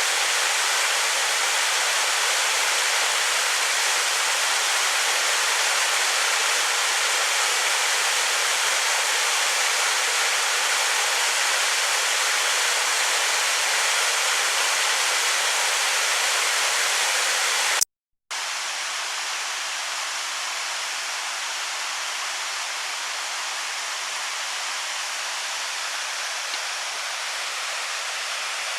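Water of a waterfall pouring and rushing steadily. Just past halfway the sound cuts out for a split second, then resumes slightly quieter.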